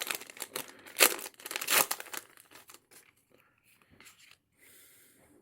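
Foil wrapper of a Japanese Pokémon card booster pack being torn open and crinkled by hand: sharp crackles loudest in the first two seconds, then fainter rustling as the cards are slid out.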